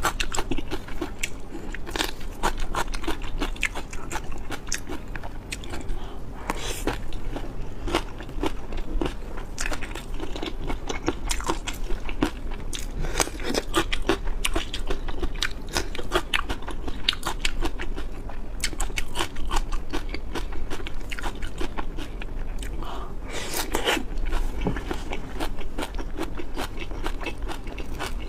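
Close-miked chewing and crunching of crisp food: a dense, irregular run of crackly bites and chews, with a louder burst of crunches near the end.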